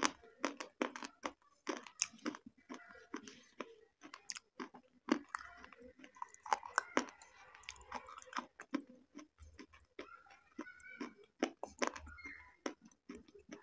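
A person chewing food close to the microphone, with many sharp mouth clicks and smacks at an irregular pace.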